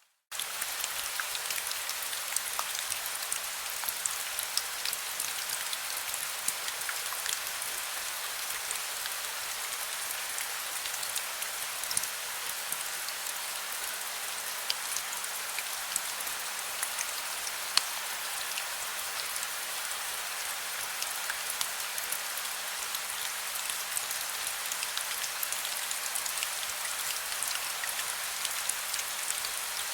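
Heavy rain falling steadily, a dense hiss full of sharp individual drop impacts. It cuts in abruptly just after a moment of silence at the start.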